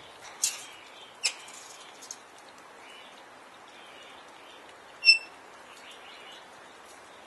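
Pet galahs calling: a few short, sharp squawks in the first two seconds, then one loud, brief, high-pitched call about five seconds in.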